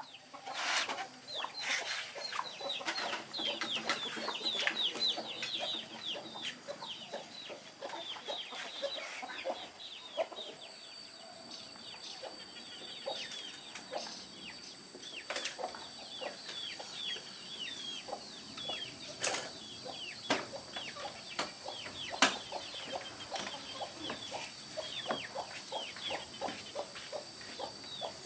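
Chickens clucking and chirping in a steady stream of short, high, falling calls, with a few sharp knocks scattered through.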